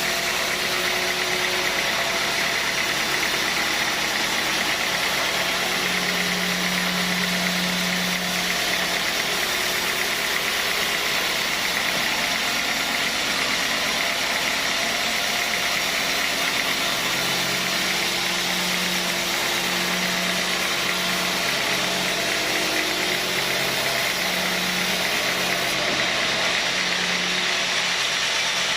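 Sawmill machinery running steadily: a continuous mechanical noise with a low hum that wavers and drops in and out.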